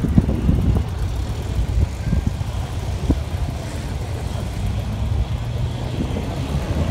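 Air-cooled Volkswagen flat-four engines running at low speed, a steady low hum as the cars roll slowly in a line. There are a few short knocks in the first second.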